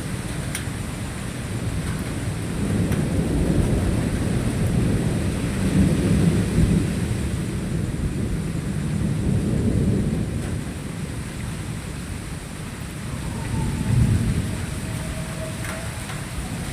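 Thunder rumbling in several slow rolling swells over steady rainfall.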